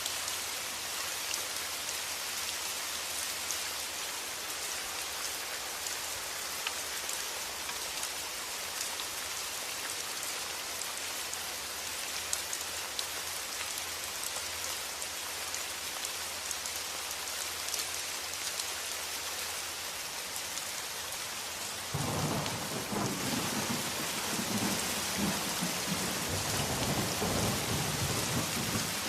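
Steady rain pattering, with many fine drop ticks. Near the end a low rumble of thunder comes in suddenly and rolls on for several seconds.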